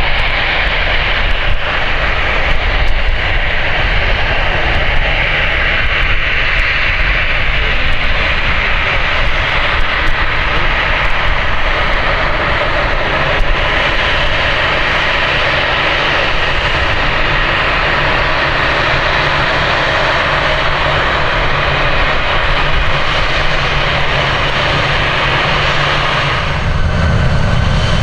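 Jet airliner's engines running steadily at taxi power, a continuous loud hiss-and-whine. Near the end the higher part of the sound drops back and a deeper rumble takes over.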